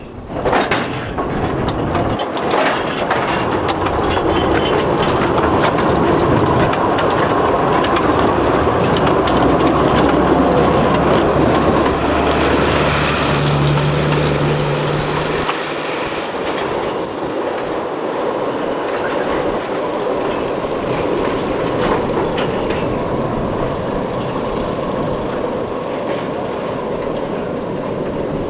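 Narrow-gauge industrial train running on its rails with a steady rumble and wheel noise. A low, steady hum drops away about halfway through while the wheel noise continues.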